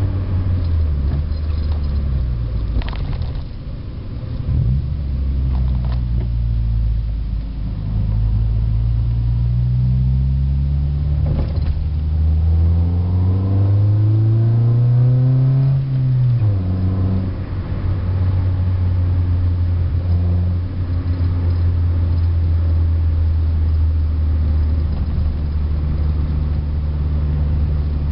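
A 1991 Honda Accord's stock F22A1 2.2-litre four-cylinder engine and exhaust droning low, heard inside the cabin with the windows up while driving. Past the middle the pitch rises steadily for several seconds as the car accelerates, then falls suddenly and settles into a steady cruise.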